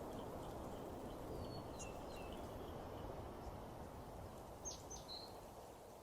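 Nature ambience track: a steady low background rush with a few small birds chirping, a cluster of short whistled notes about a second and a half in and two sharp chirps near five seconds.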